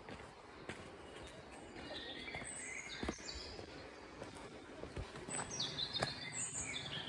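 Songbirds chirping and whistling, with a run of high notes stepping down in pitch near the end, over a few soft footsteps on a dirt path.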